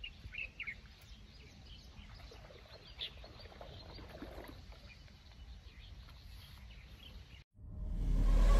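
Small birds chirping in short calls over faint outdoor background noise. Near the end the sound cuts out and a loud sound swells in, rising.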